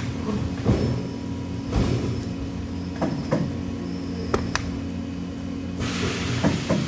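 Workshop ambience: a steady machine hum with scattered light clicks and knocks, and a burst of hiss starting near the end.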